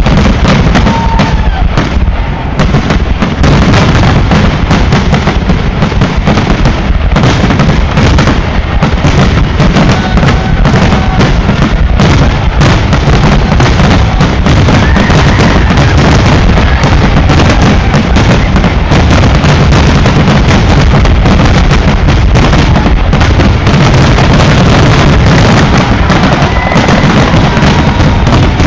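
Fireworks finale barrage: a dense, unbroken rapid fire of aerial shell bursts, booms and crackles overlapping one another, very loud throughout.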